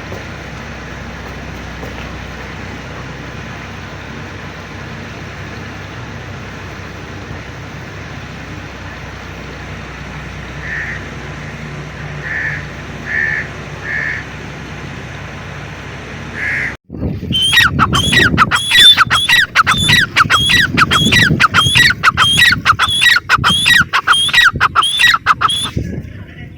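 Grey francolin calling. After a steady background hiss with a few short notes, a loud rapid series of calls begins about two-thirds of the way in, about two a second, each sweeping down in pitch.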